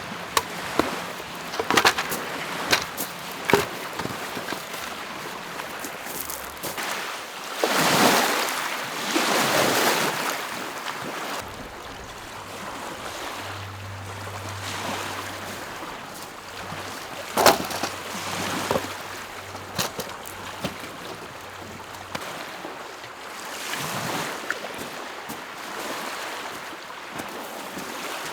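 Small lake waves washing against the shore, swelling every few seconds, with a few brief sharp sounds mixed in.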